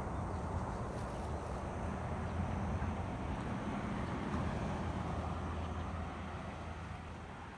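A vehicle running with a steady low rumble, fading away near the end.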